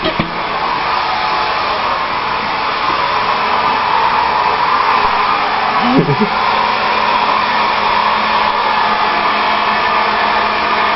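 Hair dryer running steadily with an even blowing whoosh and a low hum. About six seconds in, the beagle gives one short whining cry over it.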